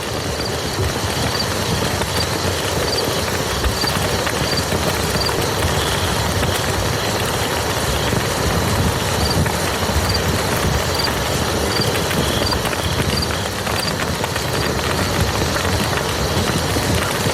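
Steady rain falling on a muddy field, a dense even patter of drops with a low rumble underneath. A faint, short high note repeats about twice a second for stretches.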